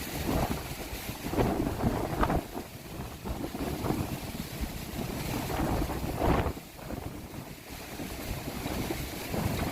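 Storm wind gusting hard against the microphone, swelling and easing in surges, with a brief lull near the end.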